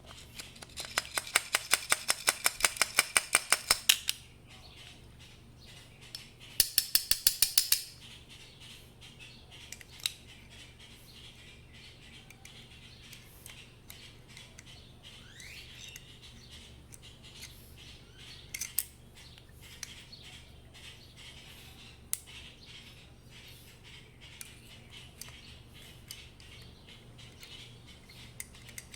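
Small metal parts clicking and tapping while the emulsion tube is worked out of a small-engine carburetor: two runs of rapid, evenly spaced clicks in the first eight seconds, then scattered light clicks and taps.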